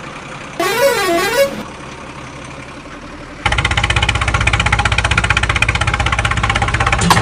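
A vehicle horn sounds for about a second with a warbling pitch that swings up and down, then a little over three seconds in a heavy truck engine starts running with a fast, even chug.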